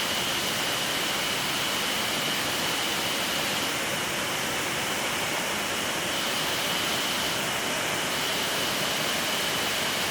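Headwater mountain stream rushing, a steady even noise, with a thin steady high tone over it.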